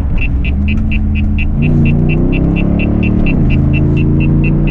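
Exhaust of a Jeep Grand Cherokee SRT8's 6.1-litre HEMI V8, through a Borla system with the mid-muffler deleted, under way: its note drops at the start, climbs again about a second and a half in, and drops again past three seconds, like gear changes. A steady high ticking runs at about four a second.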